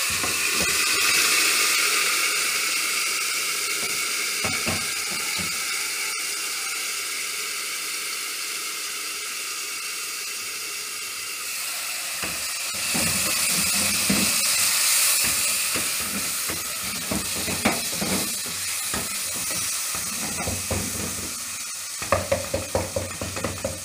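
A splash of water hits browned onions and ginger-garlic paste in hot oil in a pot, setting off a loud, steady sizzle and hiss of steam. About halfway through, the hiss eases into frying while a wooden spoon stirs and scrapes the onions against the pot.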